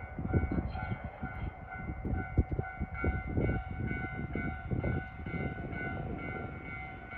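A train running through a station, its wheels rumbling and knocking over the rail joints, easing off near the end. A steady pulsing warning tone sounds over it.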